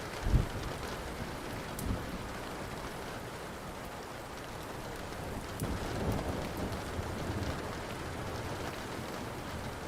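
Steady rain with thunder: a sharp low clap just after the start, a smaller one about two seconds in, and a longer rolling rumble from about five and a half to seven and a half seconds. Faint crackles of a wood fire tick through it.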